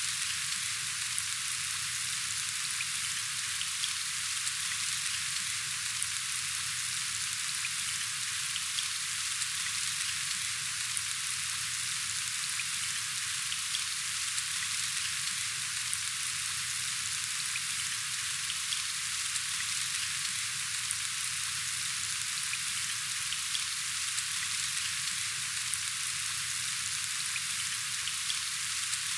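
Steady rainfall: a dense, even hiss of countless small drop impacts, with faint individual ticks of drops scattered through it.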